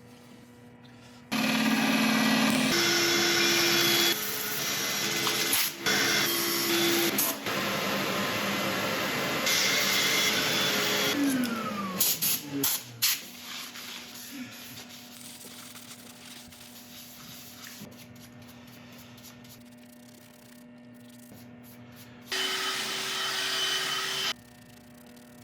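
Wood lathe turning a chestnut burl: tool-on-wood cutting and rubbing noise over a steady motor hum, in short stretches that change abruptly. About halfway through, a falling tone as the lathe slows down, after which the sound is quieter.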